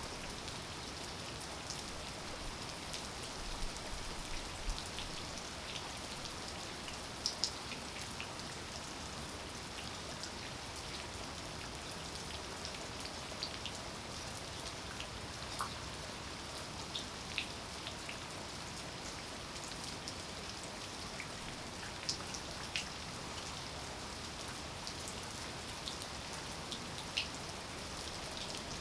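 Steady rain falling, an even hiss, with single louder drops ticking sharply here and there.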